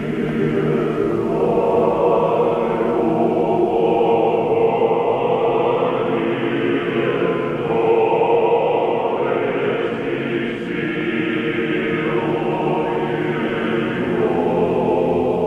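Orthodox church choir singing a slow chant, with held chords that change every couple of seconds.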